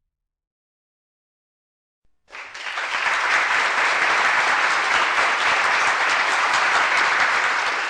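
A crowd clapping: applause that starts suddenly about two seconds in, out of silence, and holds at a steady level.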